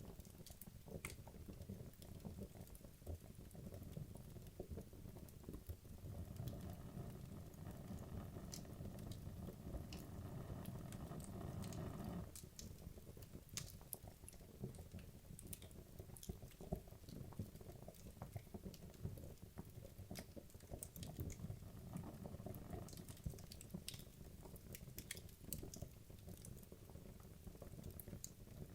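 Wood logs burning in a fireplace, crackling with frequent sharp pops and snaps over a low rumble of flame. A louder hiss starts about six seconds in and cuts off suddenly about six seconds later.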